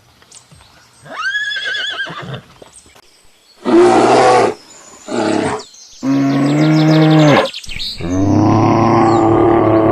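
A run of separate animal calls. First a wavering high-pitched call, then two short loud calls and a longer pitched call. About eight seconds in, a long low call begins and carries on.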